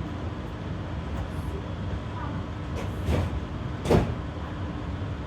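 Interior sound of a GTZO tram under way: a steady low rumble from the running gear with a faint steady hum. Two sharp clunks come about three and four seconds in, the second one louder.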